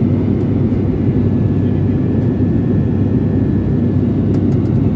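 Steady drone of an airliner's engines heard from inside the passenger cabin in flight: an even, loud roar with a low steady hum and no change in pitch.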